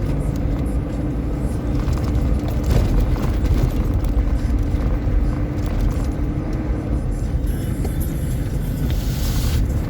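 A motor vehicle running with a heavy, steady low rumble, with music playing alongside.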